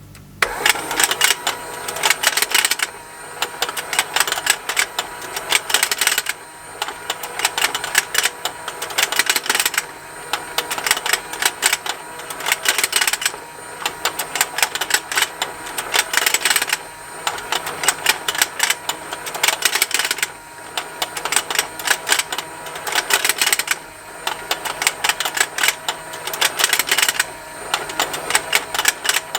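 Plastic fishing-game toy running, its small motor turning the pond with a continuous rapid plastic ticking. The ticking starts suddenly about half a second in, then swells into louder bursts of clicking about every three and a half seconds.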